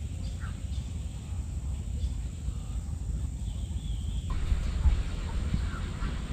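Outdoor ambience: a steady low rumble with faint, scattered bird-like chirps.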